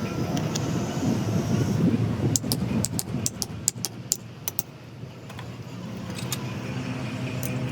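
A quick run of about ten sharp metallic clinks, like tools or steel parts knocking together, over the rumble of a vehicle engine. The engine noise settles into a steady low hum near the end.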